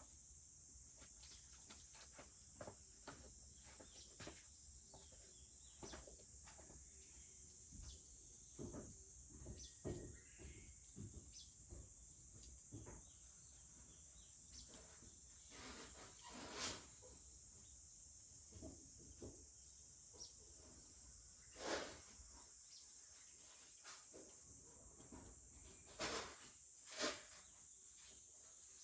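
Wood fire crackling with scattered small pops and a few louder pops in the second half, over a steady high-pitched drone of summer insects.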